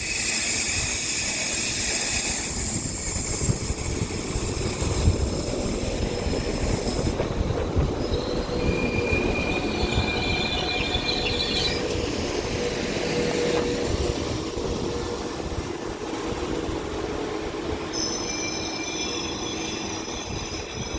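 Transport for Wales Class 197 diesel multiple unit pulling into a station platform: a steady rumble with high-pitched squealing tones from the wheels and brakes, strongest around the middle and again near the end.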